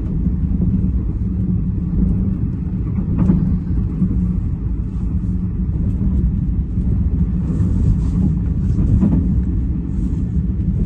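Steady low rumble of a passenger train carriage at speed, about 86 km/h, heard from inside the car: wheels and running gear on the rails.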